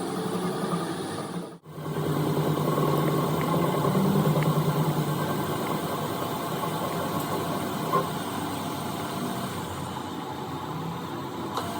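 A machine running with a steady low mechanical hum, cutting out briefly about a second and a half in.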